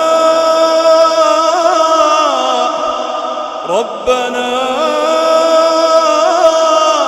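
A voice reciting the Quran in melodic tajwid style, drawing the words out in long held notes with ornamented turns. It breaks off briefly a little under four seconds in, then glides up into a second held phrase.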